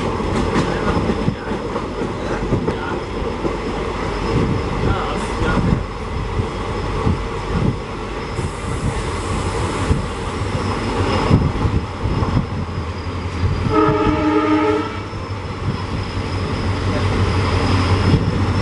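Passenger coach running along the track, heard from its open doorway: a steady rumble with irregular clatter of wheels over rail joints and points. About fourteen seconds in, a locomotive horn sounds once for about a second.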